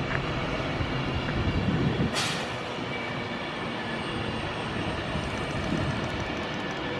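A train passing through the station: a steady rush of wheel and rail noise, with a single sharp crack about two seconds in.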